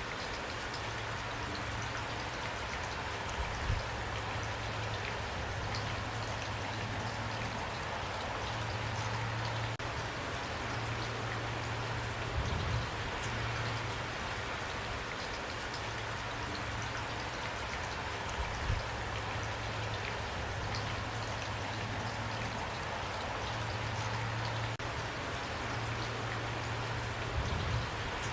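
Steady rain falling, with a few brief dull thumps now and then.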